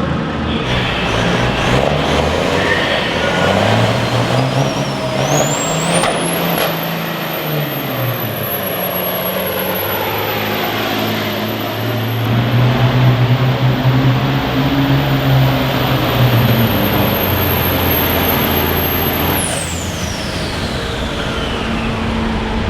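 A competition pulling vehicle's engine running hard under load, with a shrill high-pitched whine that climbs steeply about five seconds in, holds for about thirteen seconds, then drops away as the engine comes off the throttle near the end.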